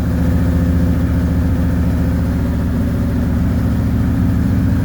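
1981 Chevrolet Camaro Z28's carbureted V8 running steadily just after a cold start, sounding a little cold; it has no choke, so it is being held on the throttle while it warms up.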